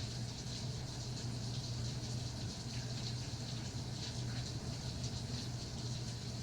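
Steady rainfall, a continuous patter of many small drops with no pauses. A low steady hum runs underneath.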